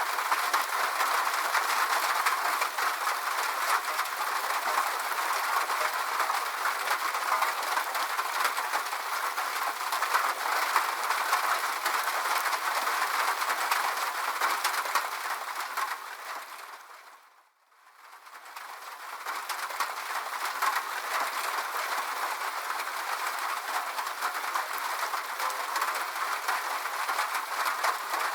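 Steady rain, a dense patter of drops with no low rumble. A little past halfway it fades down to near silence and swells straight back up within about three seconds.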